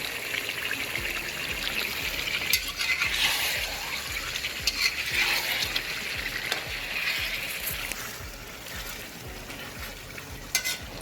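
Chicken pieces sizzling as they fry in a pot, stirred with a spoon that scrapes and clicks against the pot; a couple of sharper clinks near the end.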